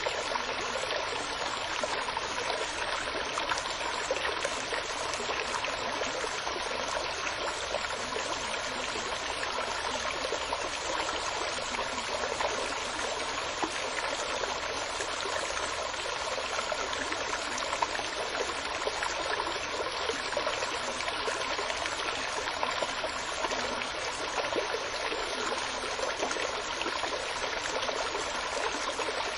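Steady flowing water, running continuously and evenly like a stream.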